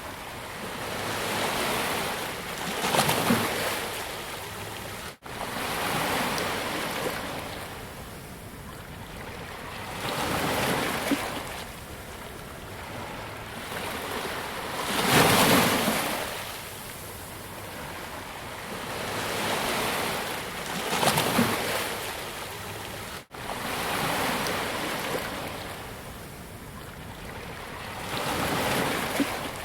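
Ocean waves breaking and washing up on a beach: a surge of surf about every six seconds, with a steady wash between. The sound cuts out for an instant twice.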